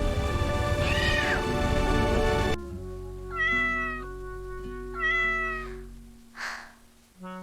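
A cat meowing twice, about a second and a half apart, over soft background music, followed near the end by a short airy whoosh.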